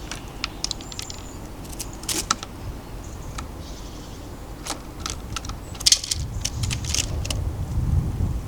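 Irregular sharp clicks and taps of birds pecking at seed and shifting on a bird feeder, in quick clusters, over a low rumble that grows louder near the end.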